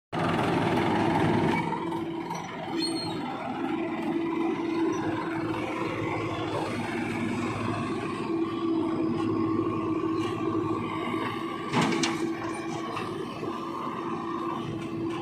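Diesel engine of a JCB 3DX backhoe loader running steadily while working, a little louder in the first second and a half. A single sharp knock comes near the end.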